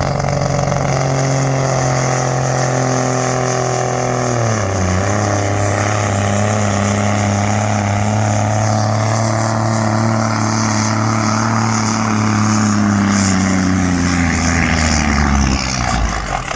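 A pulling vehicle's engine running hard in a steady high drone. Its pitch drops sharply about four and a half seconds in, then holds and falls away near the end.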